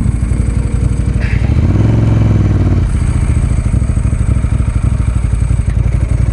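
Ducati 916's 916 cc V-twin, fitted with Arrow exhausts, idling with a lumpy, pulsing beat. Its revs rise briefly about a second and a half in and settle back to idle.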